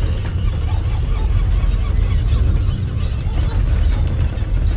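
A loud, steady, deep rumble, the rumbling of a smoking volcano.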